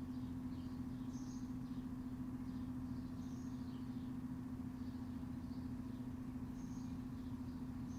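Backyard ambience: a steady low hum runs throughout as the loudest sound, while small birds chirp faintly and irregularly above it.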